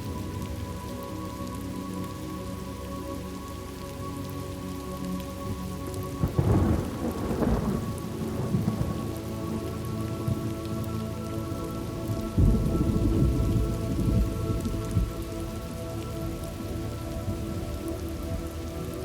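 Thunderstorm ambience: steady rainfall with two rolls of thunder, one about six seconds in and a deeper one about twelve seconds in. A soft sustained background music pad holds underneath and changes chord partway through.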